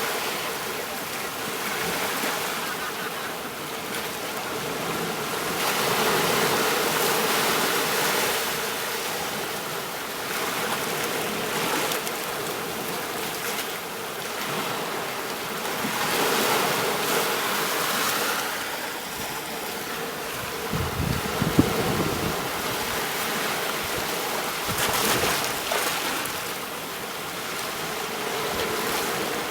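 Ocean waves washing onto a beach, the surf swelling and easing every several seconds. About two-thirds of the way through there is a brief low rumble with one sharper thump.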